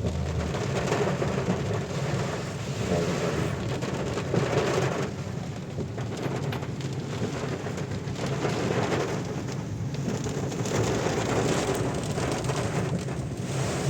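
Moving car: a steady rush of road and engine noise with a low hum, swelling and easing every few seconds.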